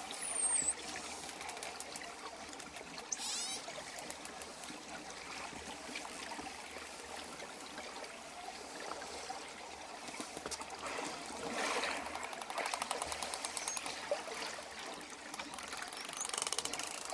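Dolphins whistling and clicking underwater over a steady wash of water: high whistles that glide in pitch near the start and a few seconds in, and rapid click trains later on.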